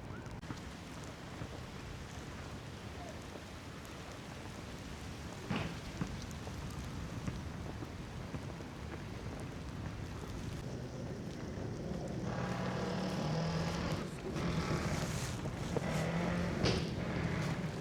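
Outdoor seaside street ambience: a steady wash of wind and traffic, with a couple of sharp clicks about five seconds in and a louder, steadily pitched sound, such as a passing engine, in the second half.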